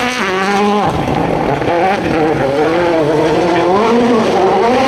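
2017 World Rally Car's 1.6-litre turbocharged four-cylinder engine at full rally pace, its revs climbing and dropping sharply about a second in, then rising and falling repeatedly as the driver works the throttle and gears.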